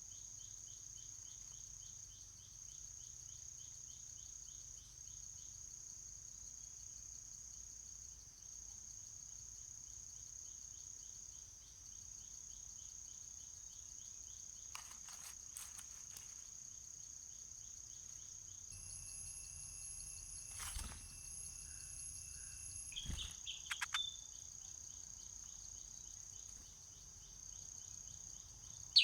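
Steady high-pitched insect chorus, with a fast pulsing trill in the first half. A few clicks and brief high chirps come about two-thirds of the way through.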